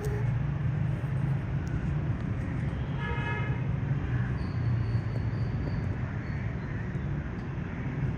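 Steady low background rumble, with a brief horn toot about three seconds in.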